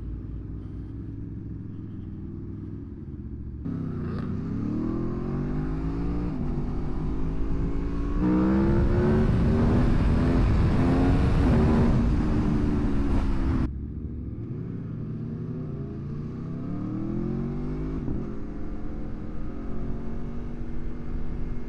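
Aprilia Tuono motorcycle engine pulling through the gears, its pitch climbing and dropping back with each shift several times. In the middle a loud rush of wind noise joins it and then cuts off abruptly.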